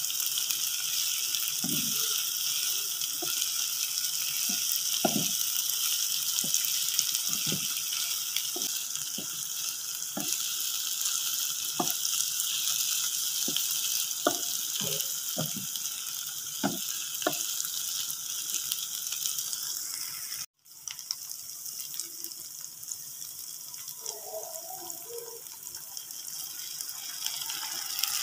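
Shredded tuna with chillies and spices sizzling in a little water in a non-stick wok, a steady hiss, while a nylon spatula stirs it and taps against the pan now and then. The sound cuts out for an instant about two-thirds through.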